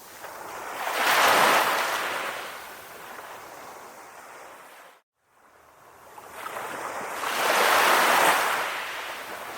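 Calm ocean waves washing onto the shore, two swells rising and falling away. There is a brief, sudden dropout to silence about five seconds in.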